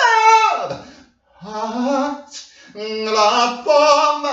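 A voice singing unaccompanied in short phrases with sliding pitch, the first phrase falling steeply.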